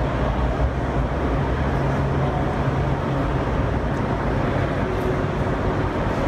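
Idling car engines: a steady, even low rumble.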